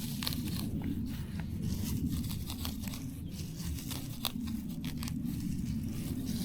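Plants being torn and pulled up by hand: irregular tearing and crackling snaps over a steady low rumble.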